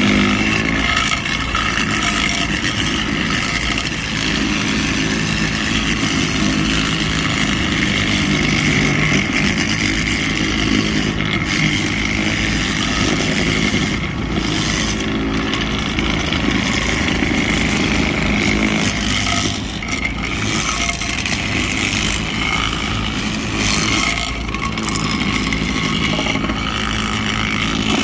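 Railway ballast tamping equipment at work, its engines running steadily with small dips in level.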